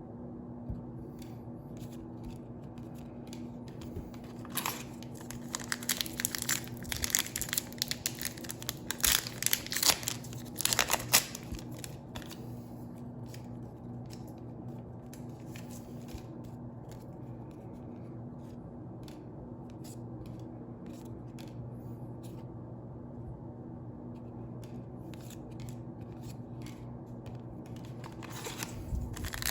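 Foil booster-pack wrappers being torn open and crinkled in loud bursts over several seconds, then scattered light clicks and rustles, with more crinkling near the end. A steady low hum runs underneath.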